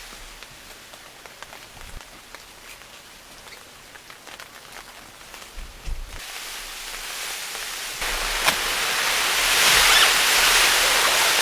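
Rain falling, at first a light hiss with scattered drop ticks, then growing louder about six seconds in and again about eight seconds in, until it is a dense, steady hiss.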